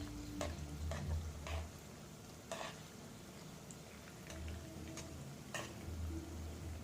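Banana bondas frying in hot oil with a faint steady sizzle. A metal utensil knocks against the frying pan about five times as the fritters are turned.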